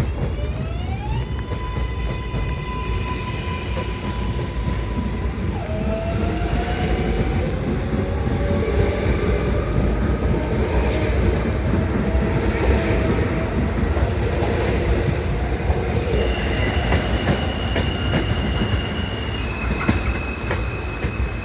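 New York City subway L train pulling out of the station: its electric traction motors whine, rising in pitch in the first second, holding, then dropping and climbing again in steps as it gathers speed, over steady rumbling of wheels on rail.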